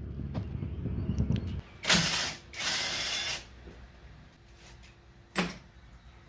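Workshop mechanical noises: a low rumble that stops about a second and a half in, then two short hissing bursts and a sharp click near the end.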